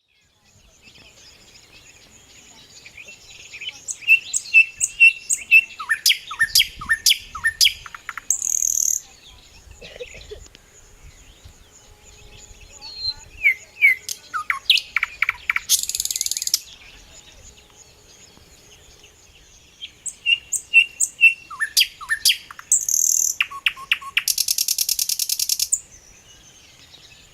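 A songbird singing in three bouts of quick sliding whistled notes, each bout ending in a harsh buzzy phrase, the last one a fast rattle.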